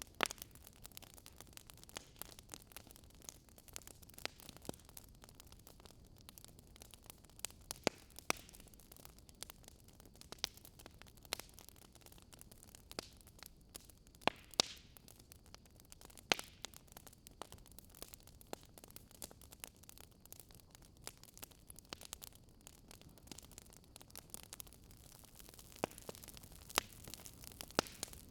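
Wood fire burning in a fireplace, crackling with irregular sharp pops over a faint steady hiss.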